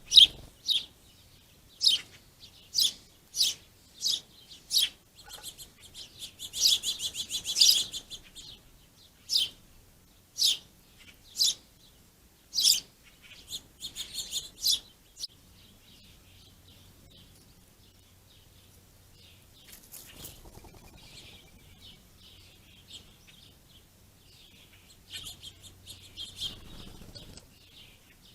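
Small songbirds chirping: a loud, high cheep about once a second for the first dozen seconds, with a quick chattering run about seven seconds in, then fainter scattered twittering.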